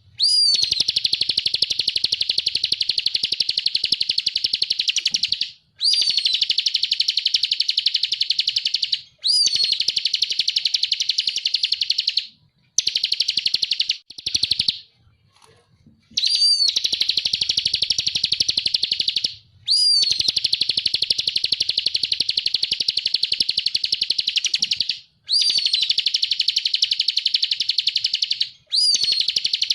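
Ciblek (prinia) singing a 'ngebren' song: about eight long, high, rapid buzzing trills of a few seconds each. Each opens with a quick rising-then-falling note, and each is broken off by a brief pause.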